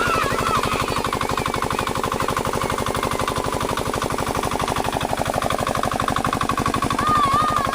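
Old diesel water-pump engine running steadily with a fast, even knocking beat, about ten a second. A wavering high tone rises over it at the start and again near the end.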